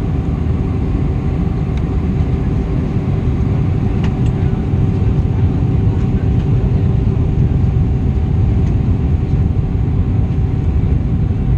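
Steady cabin noise of an Airbus A320 airliner in flight on approach: a deep, even rumble of airflow and jet engines with a faint steady hum over it.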